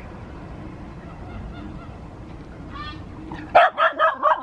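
Geese honking: a quick run of about four loud honks near the end, after a few fainter calls a little before.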